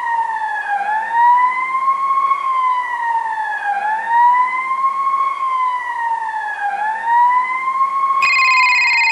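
Emergency vehicle siren wailing, its pitch sweeping up and then sliding down about every three seconds. Near the end a telephone starts ringing over it.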